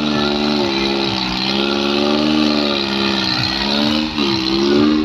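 New Holland tractor's diesel engine running loudly, its pitch sagging and rising again several times as its speed changes.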